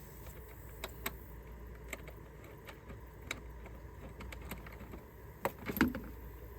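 Scattered metallic clicks and clinks of hand tools on the truck's engine as a cover is being unbolted, with the loudest pair of knocks near the end, over a steady low hum.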